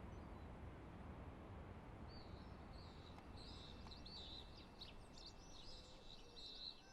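Faint outdoor ambience with a low steady rumble, and from about two seconds in a small bird twittering in quick, repeated high chirps.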